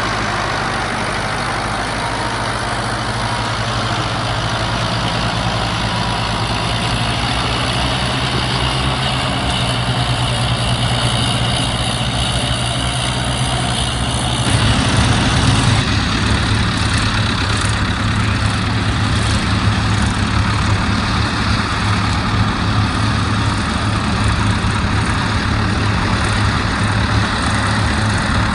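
Tractor diesel engine running steadily, with a deep low hum; the sound changes abruptly about halfway through.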